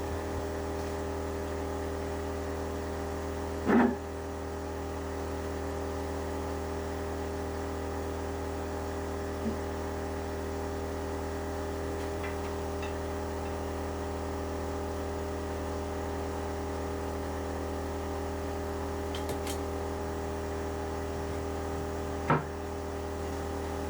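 Steady drone of a petrol generator running, with two sharp knocks, about four seconds in and near the end.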